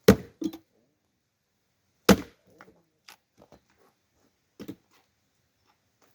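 Axe blows splitting firewood: two heavy strikes about two seconds apart, each followed by lighter knocks of wood.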